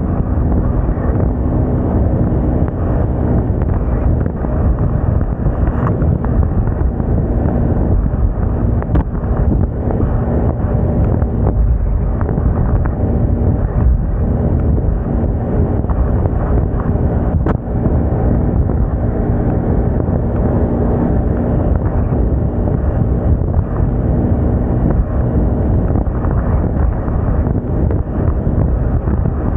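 Wind buffeting the microphone on a moving Moda Moca 110 scooter, with its small engine running steadily underneath at a constant cruising speed.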